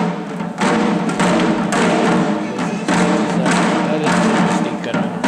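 Shishi odori deer-dance drums beaten in a steady beat of about two strokes a second, over a continuous sustained many-toned sound.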